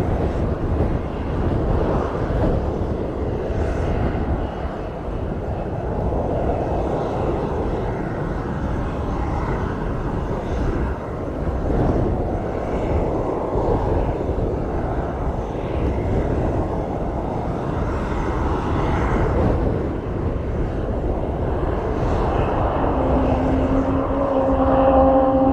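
Airplane engine noise, a loud steady rush. Near the end a humming tone joins in and rises slightly in pitch.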